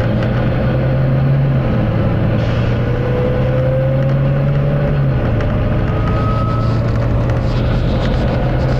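Volvo B9TL double-decker bus's six-cylinder diesel engine and drivetrain, heard on board while driving hard at speed, with a whine that rises in pitch a few seconds in.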